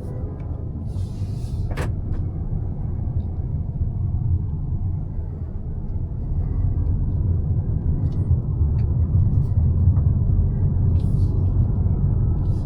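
Mazda CX-5 with the 2.5-litre naturally aspirated four-cylinder on the move, its engine and road noise giving a steady low rumble that grows louder from about halfway. A single sharp click comes near two seconds in.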